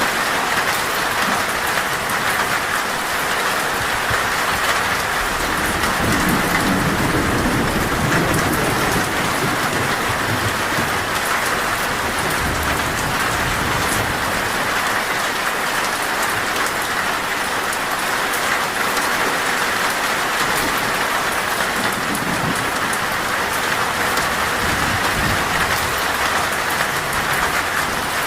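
Heavy, steady rain drumming on a metal roof. A low rumble of thunder swells about six seconds in and dies away by ten, with a fainter rumble later.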